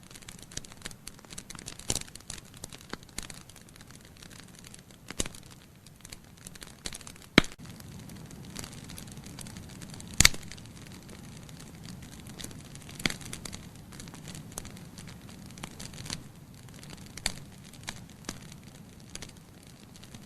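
Logs burning in a fireplace, crackling with irregular sharp pops over a soft low rumble of flame. Two pops, about 7 and 10 seconds in, are louder than the rest.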